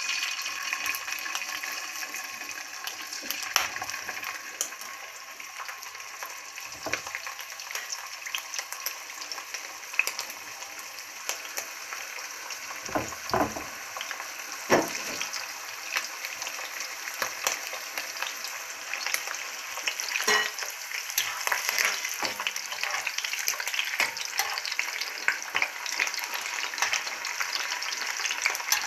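Pieces of lamb liver sizzling and crackling in hot vegetable oil in a heavy cast-iron frying pan. A few soft knocks come as more pieces are laid in and turned with a slotted spatula.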